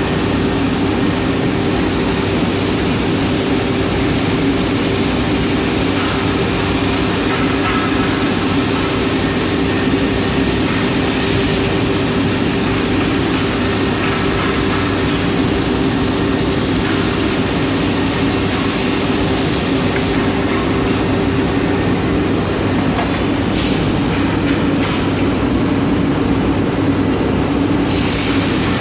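Industrial machinery running steadily: a loud, even noise with a constant low hum. About three-quarters of the way through, one of the hum tones stops.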